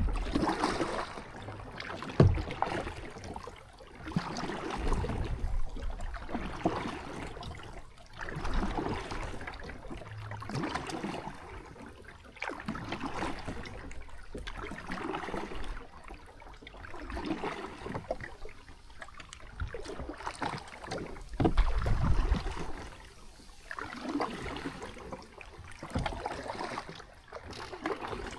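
Kayak paddle strokes dipping and pulling through water, a splashing swell about every two seconds as the blades alternate, with some low rumbles among them.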